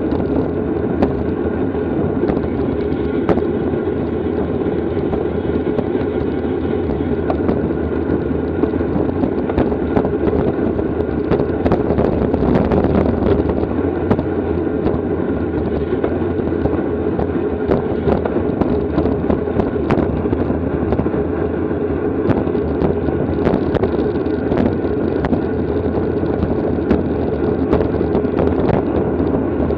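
Steady wind noise rushing over a bicycle-mounted camera's microphone at racing speed, with scattered brief clicks and knocks.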